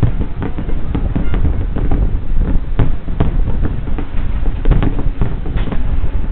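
Fireworks display: many rapid bangs and crackles going off one after another over a continuous low rumble.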